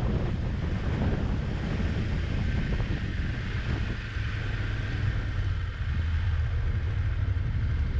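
Wind rushing over the microphone of a moving motorcycle, over a steady low rumble.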